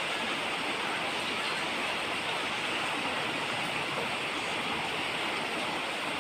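Steady rain falling, an even hiss of drops with no single drops or thunder standing out.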